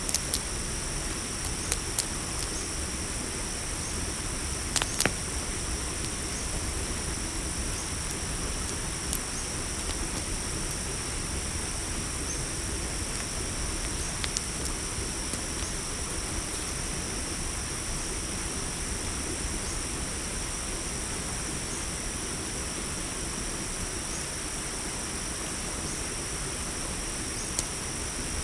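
A steady chorus of crickets over a crackling campfire, with scattered sharp pops from the fire, a few close together about five seconds in.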